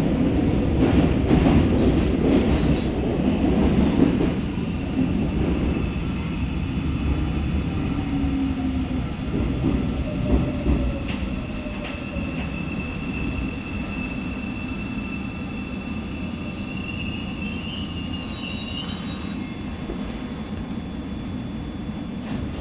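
Seoul Subway Line 4 train slowing into a station: heavy rumble of running gear that fades as it brakes, with a thin high squeal from wheels and brakes in the second half that rises slightly just before it stops.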